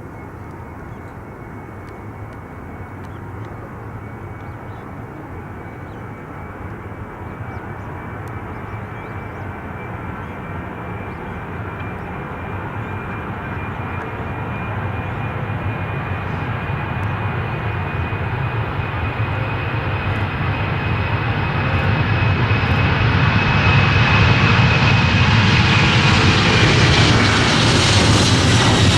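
An airliner's engines drawing steadily closer, growing louder over about half a minute, with a steady high whine above the rumble that sharpens near the end as the aircraft comes near.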